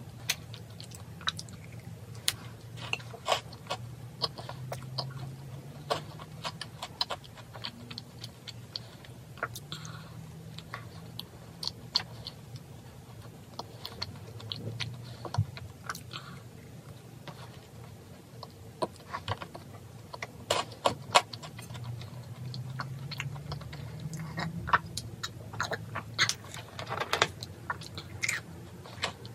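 Close-up chewing of a macaron, with scattered small crisp clicks and crunches as the shell is bitten and chewed.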